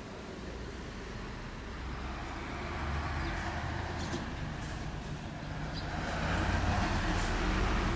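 Vehicle passing along the street: a low rumble and steady noise that grow louder about three seconds in and again from about six seconds.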